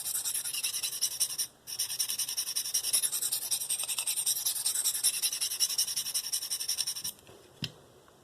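Steel knife edge stroked quickly back and forth across a DMT Diafold fine diamond plate, a steady scratchy rasp that raises a burr on the S30V blade. It breaks off briefly about a second and a half in and stops about a second before the end, followed by a single short knock.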